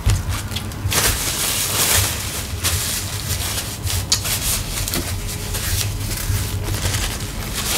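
A person chewing crunchy fried tortilla pieces, a dense crackly crunching that goes on throughout with small sharp cracks.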